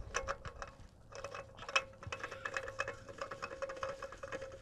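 Small irregular clicks and scrapes as a new oil filter is spun by hand onto its threaded mount on a 2016 Honda Accord, over a faint steady hum.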